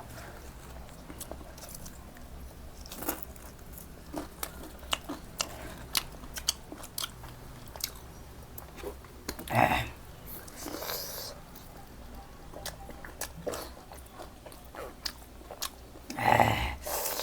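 A person chewing and biting food close to the microphone, with irregular wet mouth clicks and smacks. Two louder, longer mouth sounds stand out, one about halfway through and one near the end.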